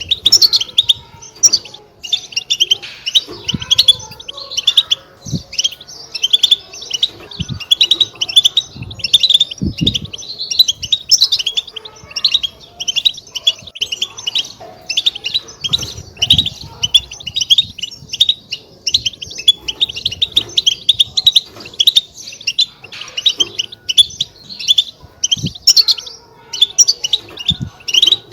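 European goldfinches twittering: a dense, continuous run of quick, high chirps, with a few brief low thuds among them.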